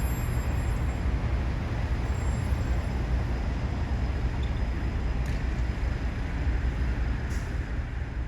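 Steady rumble of city street traffic with passing vehicles, and two brief hisses in the second half.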